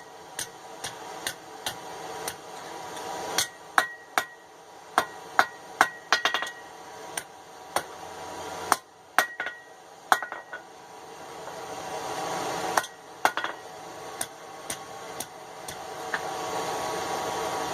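Blacksmith's hand hammer striking hot steel on an anvil to bend the bar, irregular blows in clusters, several with a short bright ring from the anvil, over a steady hiss that swells and then drops.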